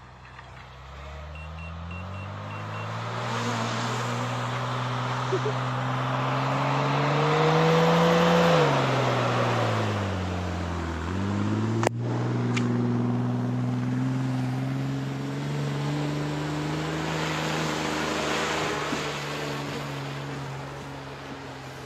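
A vehicle engine speeds up steadily for several seconds, eases off, then picks up again and holds steady, with a sharp click partway through.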